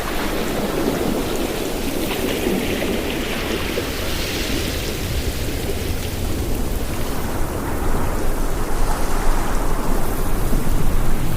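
Ocean surf washing in a continuous rushing noise with a deep rumble, swelling and growing louder near the end.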